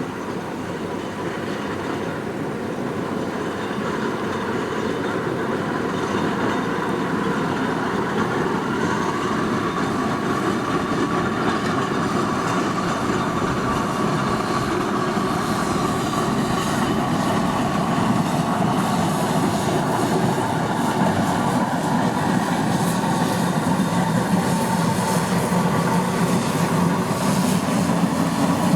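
Steam traction engine running along the road, a continuous mechanical chuff and clatter that grows gradually louder over the first several seconds.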